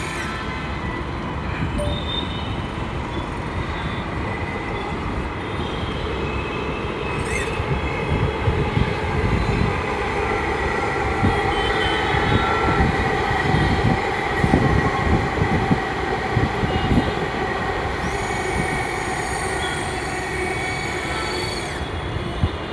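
Delhi Metro train running on the track, a steady rumble with a whine, growing louder with a run of low knocks in the middle.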